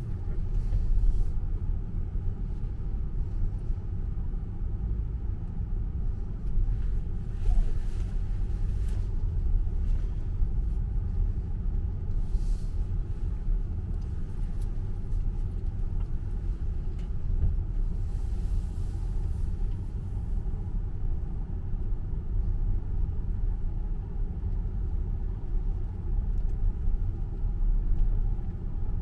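Steady low rumble of tyre and road noise from a Tesla electric car driving through the Loop tunnel, heard from inside the cabin, with a few faint brief hisses now and then.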